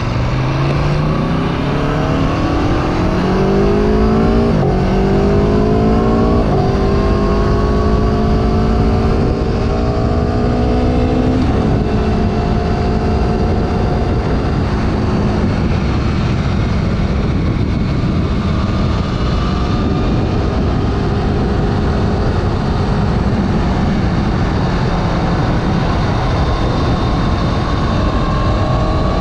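Sport motorcycle engine accelerating hard through the gears, its pitch climbing and dropping abruptly at three upshifts in the first dozen seconds. It then holds a steady pitch at cruise, and the revs rise again near the end.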